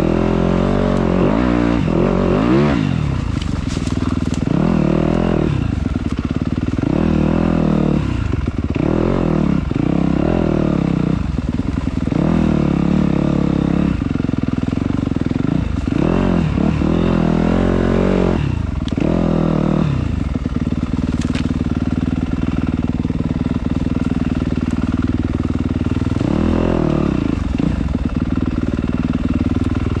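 Dirt bike engine running and revving, its pitch rising and falling over and over with the throttle as it rides a rough trail.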